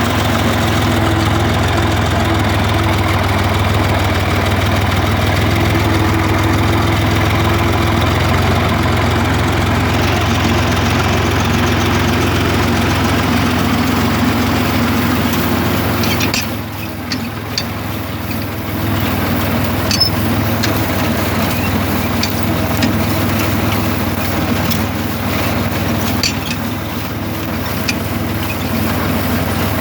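Tractor engine running steadily. About sixteen seconds in, its sound dips for a couple of seconds and then picks back up, with scattered light clicks over the rest.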